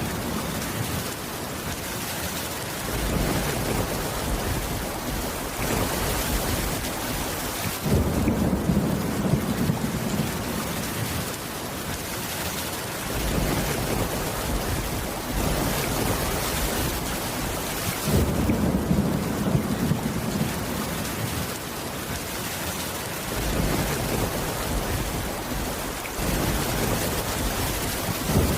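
Steady heavy rain with low rolls of thunder that swell every few seconds, loudest about eight and eighteen seconds in.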